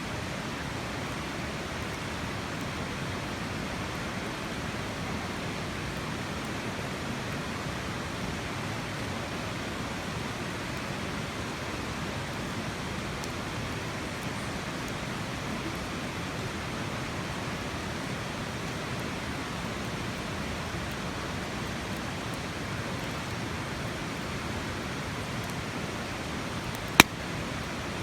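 Steady, even rushing noise, with one sharp crack about a second before the end.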